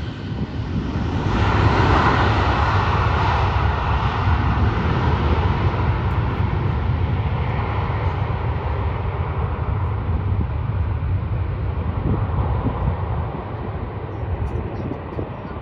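Airliner engines roaring past. The noise swells about a second in and then slowly fades away.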